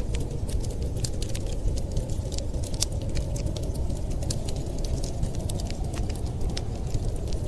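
Fireplace crackling: frequent irregular sharp pops and snaps over a steady low rumble.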